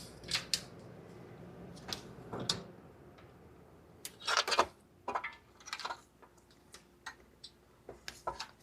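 Scattered clicks and short clattery knocks of hand work on a wiring harness: plastic connectors and clips being unclipped and handled. The busiest clatter comes about halfway through.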